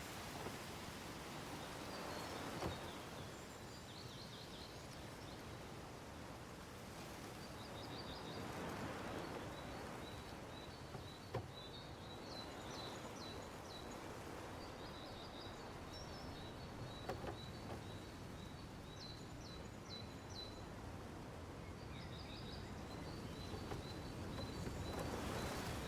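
Small birds chirping in repeated quick strings of high notes over a steady background hiss, with a couple of faint knocks.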